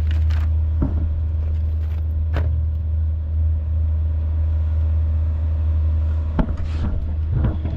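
A car engine idling with a steady low rumble. A few short knocks or clicks come over it.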